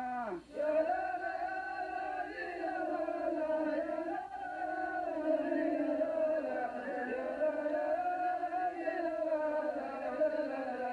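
Male voice chanting a slow melody in long, drawn-out held notes that slide gently between pitches.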